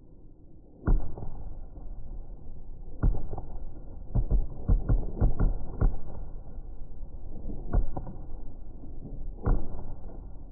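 Fireworks bursting in a series of deep bangs with rumbling in between. One comes about a second in, a quick cluster follows between about three and six seconds, and a few more are spaced out near the end.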